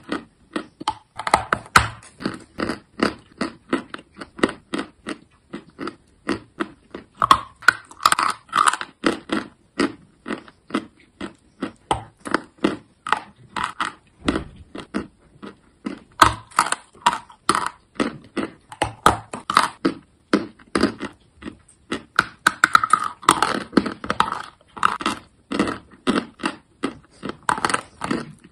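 A person biting and chewing crunchy chalk: crisp crunches, several a second, without pause.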